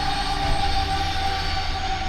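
A vehicle running with a steady low rumble, a wash of noise and a high, steady whine; the rumble grows stronger about half a second in.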